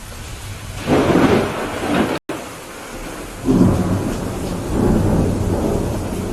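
Thunderstorm: steady heavy rain with rolling thunder, one rumble starting about a second in and a longer one from about three and a half seconds. The sound drops out completely for an instant just after two seconds.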